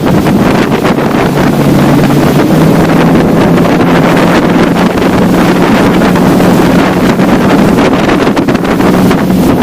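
Motorboat engine running under way, its steady note stepping up slightly about two and a half seconds in, with heavy wind buffeting the microphone.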